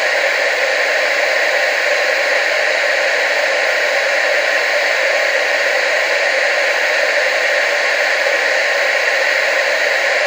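Analog TV static: a steady, unbroken hiss with most of its energy in the middle and upper range and almost no bass.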